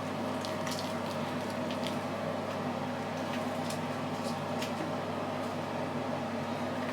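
A steady low hum, with faint, short, wet clicks now and then from foam cleanser being worked into the face with the hands.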